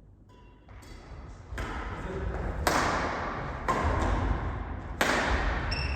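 Badminton rally in a large hall: rackets hitting the shuttlecock about once a second, each hit echoing and the hits growing louder, with a few short squeaks in between.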